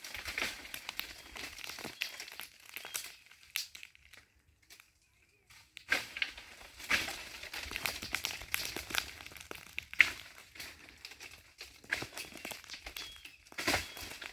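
Walnuts dropping onto dry fallen leaves: a dense, irregular rustling crackle with sharp clicks of nuts striking. It stops briefly about four seconds in and resumes about two seconds later.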